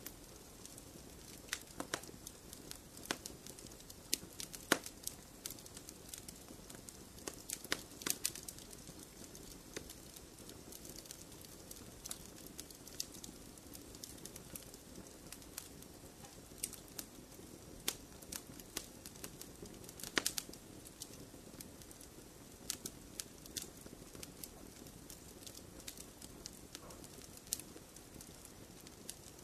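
Wood fire burning in a fireplace: logs crackling and popping with irregular sharp snaps over a soft steady hiss, with brief clusters of pops about 8 seconds in and near 20 seconds.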